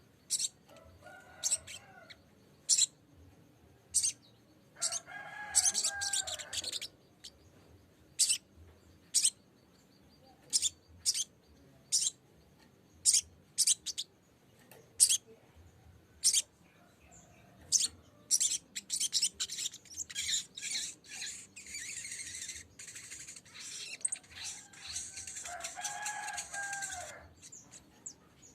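Sogok ontong (sogon) bird calling: sharp, high chip notes about once a second, breaking into rapid chattering runs twice, the second one long, near the end.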